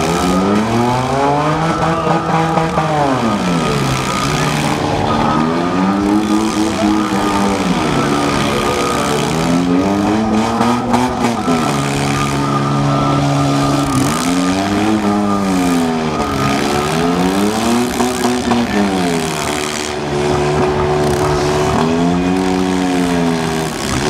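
Demolition derby cars' four- and six-cylinder engines running hard, revved up and let down again every few seconds as the cars push against each other.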